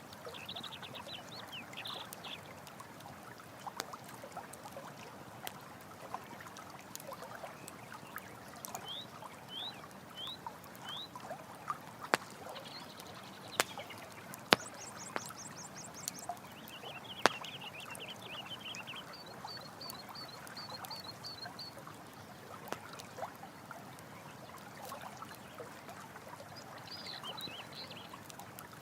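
Running stream water pouring steadily, with a campfire crackling: a few sharp pops stand out around the middle. Short animal chirps and trills sound over the water now and then.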